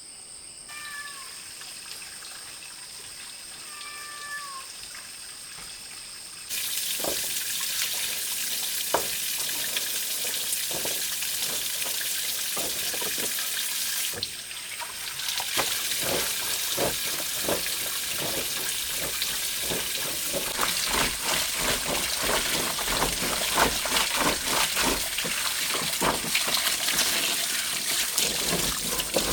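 Two short, falling meow-like calls over a faint steady insect buzz, then about six seconds in a sudden change to water running and splashing, with many irregular splashes and knocks.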